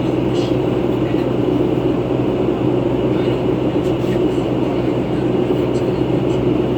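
Steady drone of a 2011 New Flyer C40LF compressed-natural-gas transit bus running, heard from inside the bus, with a steady low hum under it.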